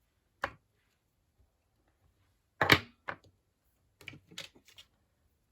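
A few sharp knocks and taps of stamping supplies being handled on a craft desk: one near the start, the loudest just under three seconds in, then a quick cluster of smaller taps near the end.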